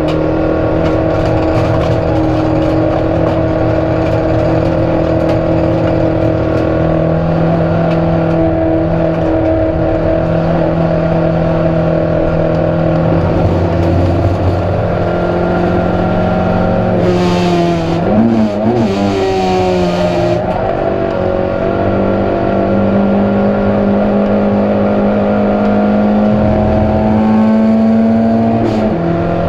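Proton Saga race car's engine running hard at high, steady revs, heard from inside the cabin. About two-thirds of the way in the revs dip and waver under a burst of hiss, then climb again. Near the end the pitch falls sharply.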